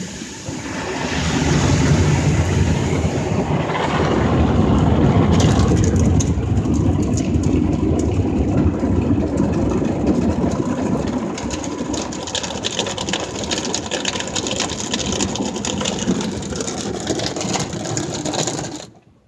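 Ryko SoftGloss Maxx automatic car wash working over a truck: a loud steady rumble of spinning wash brushes and water with crackling slaps, cutting off abruptly near the end.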